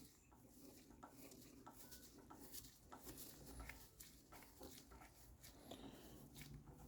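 Near silence with faint, scattered small clicks and taps: small carburetor parts being handled and fitted back together.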